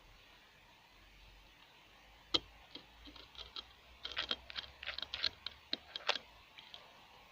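Quiet room, then from a couple of seconds in a run of about a dozen sharp, irregular clicks and taps, bunched most closely in the middle: unexplained knocking of the kind the recording was set up to catch.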